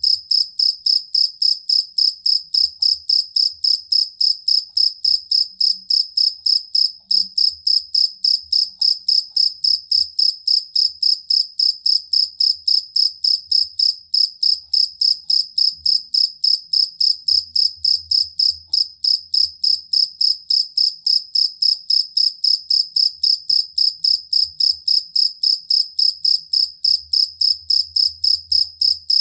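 A jangkrik kalung field cricket calling in a steady, unbroken run of chirps, about three or four a second, each a high ringing tone.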